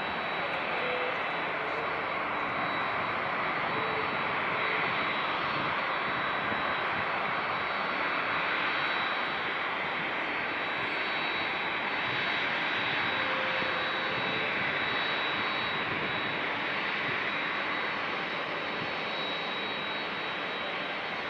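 Jet airliner engines running steadily, a dense rushing noise with a thin, steady high-pitched whine over it.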